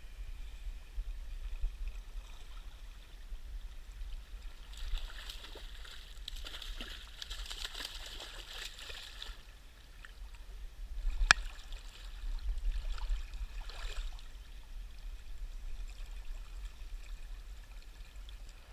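River water running and trickling, over a steady low rumble. The hiss of the water swells for a few seconds near the start, and there is one sharp click a little past halfway.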